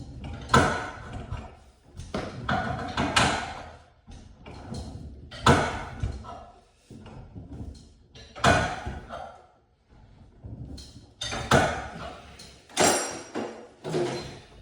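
Metal tools and garage door hardware clanking and knocking during spring replacement work: about eight irregular knocks, a second or more apart, some with a short metallic ring.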